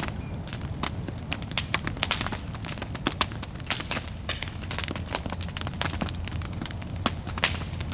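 Bonfire crackling, with frequent irregular sharp pops and snaps over a steady low rumble.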